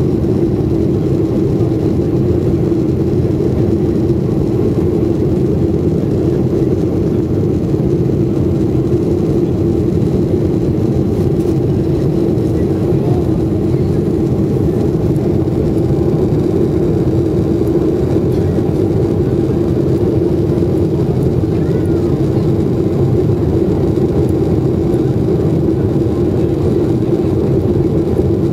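Steady, unchanging cabin noise of a jet airliner in flight: engine and airflow noise heard from inside the cabin, heaviest in the low range.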